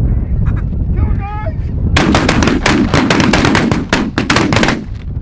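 A short quacking call about a second in, then a rapid volley of many shotgun blasts from several hunters firing at incoming ducks, running for nearly three seconds with shots overlapping.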